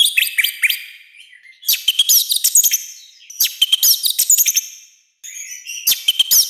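Orange-headed thrush singing a loud, harsh song in four phrases of rapid, sliding high notes with short pauses between them.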